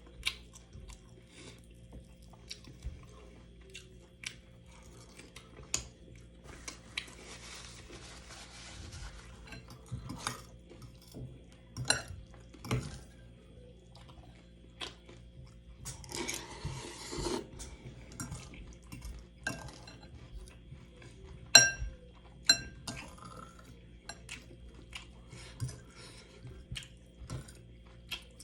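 Cutlery clinking and scraping against dishes while eating, in scattered sharp clinks that ring briefly, the loudest about three quarters of the way through. Two longer noisy stretches come in between.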